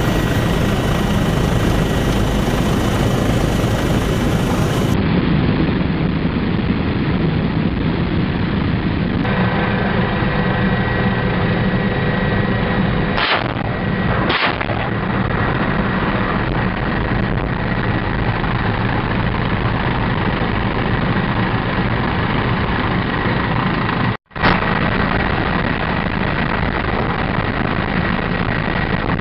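Helicopter rotor and turbine engine noise, loud and steady, with a thin steady whine over the low rotor drone. Two brief sharp cracks sound about halfway through.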